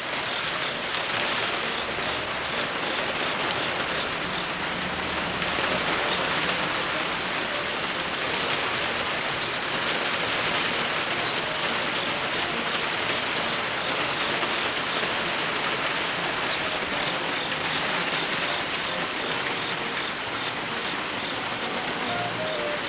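Heavy typhoon rain falling steadily, an even hiss of rain on surfaces with raindrops pattering throughout.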